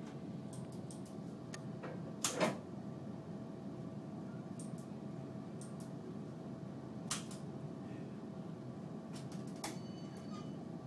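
Tram running noise: a steady low rumble with a faint steady hum, broken by scattered clicks and knocks, the loudest a double knock about two seconds in and another about seven seconds in.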